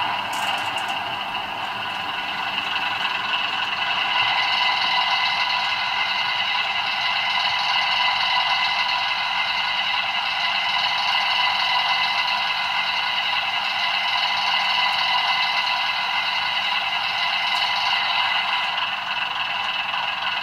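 DCC sound decoder in a 00 gauge model diesel train playing a steady diesel engine sound through its small onboard speaker, thin and lacking bass, with the clatter of the model running along the track.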